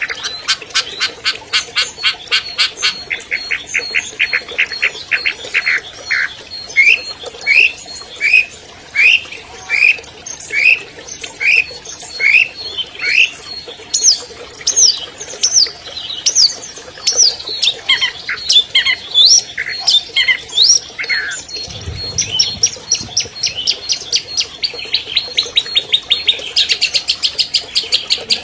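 Long-tailed shrike singing a varied song: a fast dry chatter, then a string of quick rising whistled notes, then a run of higher rising notes, returning to rapid chatter near the end.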